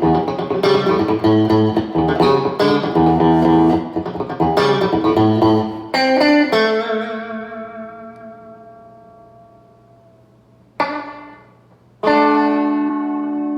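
Clean American Fender Stratocaster with the neck pickup blended in through a blender pot, played through a 5F4 amplifier with a little reverb and compression. Chords are struck rhythmically for about six seconds, then a chord is left to ring out and fade with a slight waver. After a short pluck, a final chord is struck and left to sustain.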